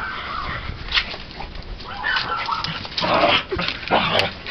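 Dog whining in short, high-pitched cries that waver in pitch, then a few rougher, harsher yelps or barks around three to four seconds in.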